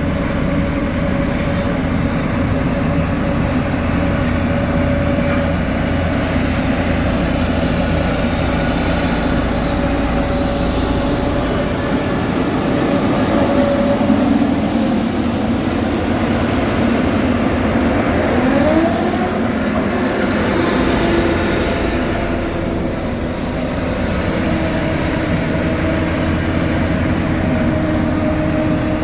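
Heavy diesel road-construction machinery running steadily. Its engine tones shift, with one rising rev about two-thirds of the way through.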